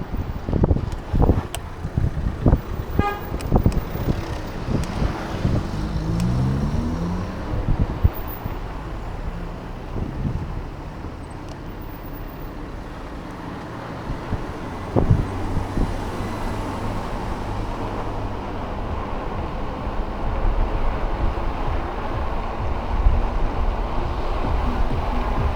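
Wind rushing over an action camera's microphone on a moving e-bike, with road and traffic noise. The first few seconds hold a series of knocks and bumps, and a steady low tone starts sharply about fifteen seconds in.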